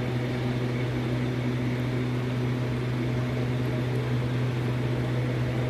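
Steady low machine hum with a constant pitch, like a running motor or appliance, with a light hiss over it.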